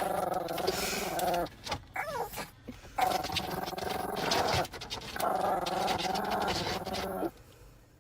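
A dog vocalizing in three long, drawn-out, wavering calls with short breaks between them.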